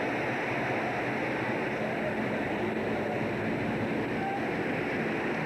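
Steady rushing noise aboard a fishing boat at sea, a faint low hum from the engine under the wash of water.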